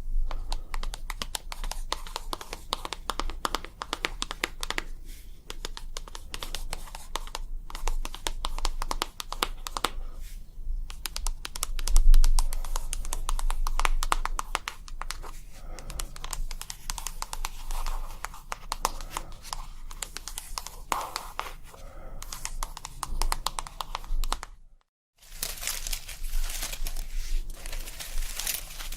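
ASMR tapping: rapid, dense tapping with a crinkly, crackling texture that goes on without pause. It cuts out completely for about half a second near the end, then comes back brighter.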